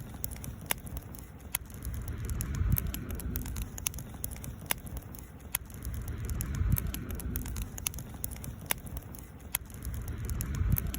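Wood campfire crackling, with sharp scattered pops. Under it a low rumble swells and fades about every four seconds.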